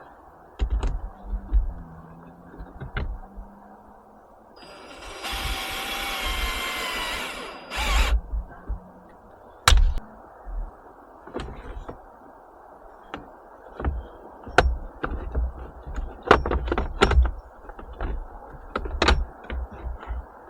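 Hand work on a vehicle: scattered clicks and knocks of tools and parts, with a power tool whirring for about three seconds near the start and a quick run of knocks near the end.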